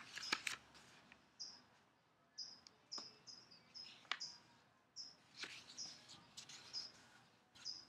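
A small bird chirping: short high notes, a dozen or so at irregular intervals. Faint rustles and creases come from a sheet of paper being folded by hand.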